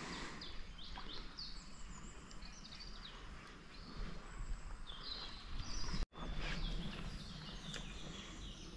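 Several small birds singing, a busy chorus of short chirps and quick trills, over a steady low background noise. The sound drops out for an instant about six seconds in.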